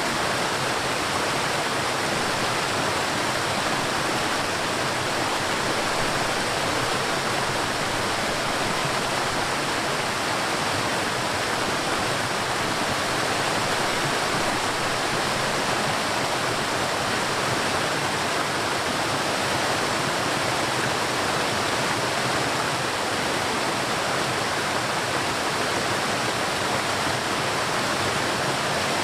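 River water flowing and rushing, a steady even sound without breaks.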